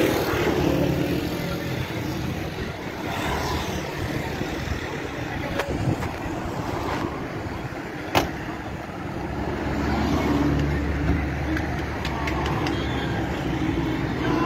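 Car engines running in slow traffic, a steady rumble that swells for a couple of seconds about ten seconds in, with a single sharp click about eight seconds in.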